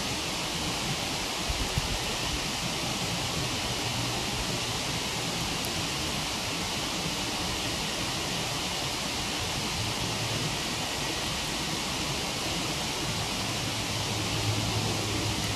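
Steady rushing of a waterfall, with a couple of soft low thumps about one and a half seconds in.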